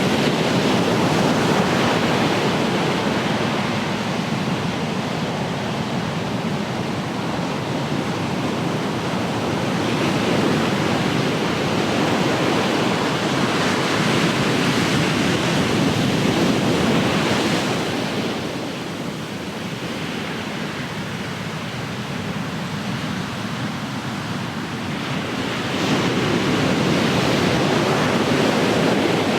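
Ocean waves breaking and washing on the shore, a continuous surf wash that swells and eases in slow surges, with a lull in the middle and a fresh surge near the end.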